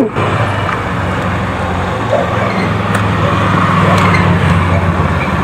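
A motor vehicle engine running steadily, with a low hum that swells slightly midway, over road traffic noise.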